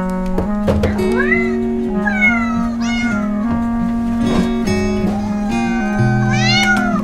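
A cat meowing about four times, drawn-out calls that rise and fall in pitch, the last one longest, over background music.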